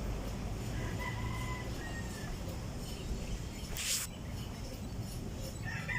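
A faint, distant chicken call about a second in, over a low steady background hum, then a single sharp click about four seconds in.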